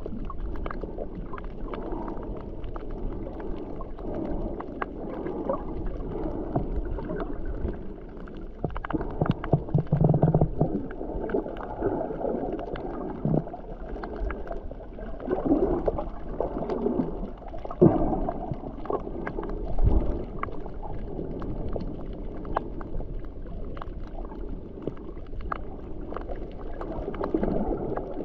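Water sloshing and gurgling against a sailboat's hull, in irregular surges with a few sharp splashes.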